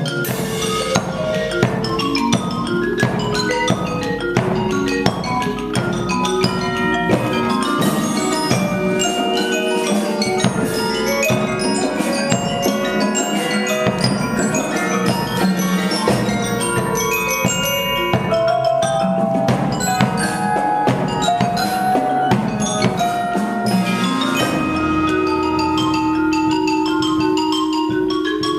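A fugue played on mallet percussion: many quick struck, pitched notes woven together in several lines. About three-quarters of the way through, a long held lower note sets in beneath them.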